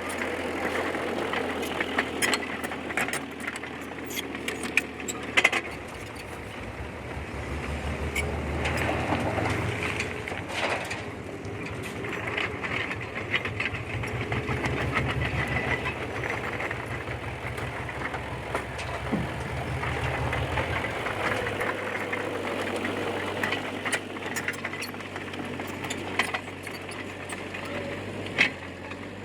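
Diesel engine of a small D20P bulldozer running steadily, its low drone growing heavier for a stretch in the middle, with scattered sharp clanks and knocks.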